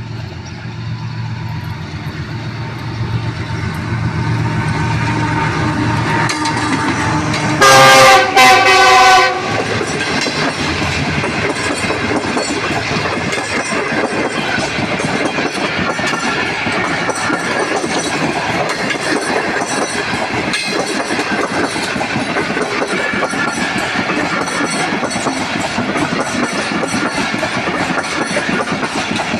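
Diesel locomotive approaching with its engine running and growing louder, then sounding its horn in two short, very loud blasts about eight seconds in. Its passenger coaches then roll past with a steady rumble and clatter of wheels on the rails.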